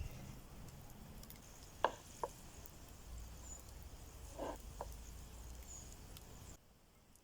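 Log campfire burning, laid in a well (log-cabin) stack, with a few sharp pops and crackles over a faint steady hiss. The sound drops off abruptly near the end.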